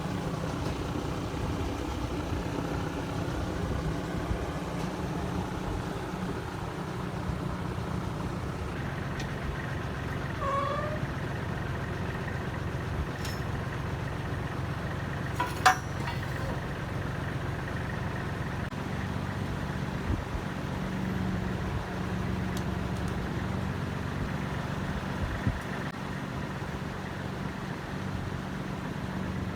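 Kubota L35 tractor's diesel engine running steadily while the backhoe is worked, with a few short knocks, the loudest about halfway through.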